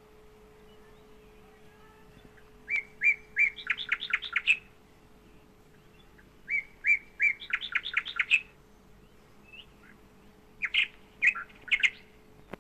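A bird singing: two matching phrases, each a few separate chirps that speed up into a quick run of higher notes, then a handful of separate chirps near the end. A faint steady hum sits underneath.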